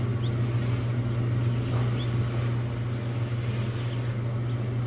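A steady low mechanical hum with a haze of noise over it, loud enough to be called 'that noise', and two faint, short, high peeps about a quarter second and two seconds in.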